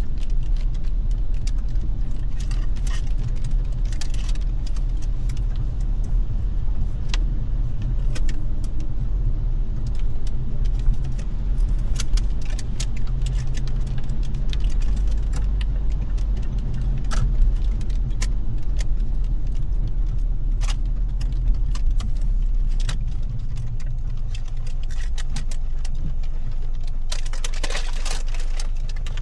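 Car cabin noise while driving in rain: a steady low road and engine rumble with irregular raindrops tapping on the windshield and roof. A brief rush of hiss near the end, like spray or a passing vehicle on the wet road.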